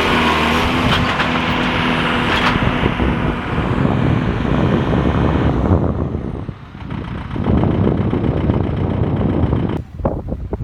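Tractor engine running hard while it pushes a heavy monster-truck tire. It eases off about six and a half seconds in, picks up again, and drops away near the end.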